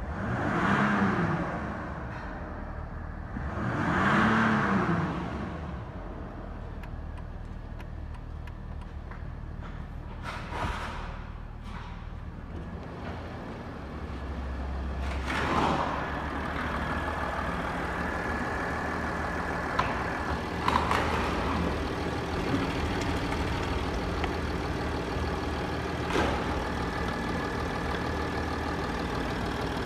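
Mercedes-Benz S-Class W221 engine revved briefly twice, then running at a steady idle with a few sharp clicks.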